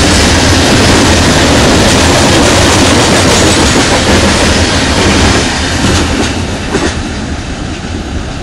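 Norfolk Southern train passing close, its wheels running loudly on the rails with a heavy low rumble. The sound begins to fade about five seconds in as the train moves on.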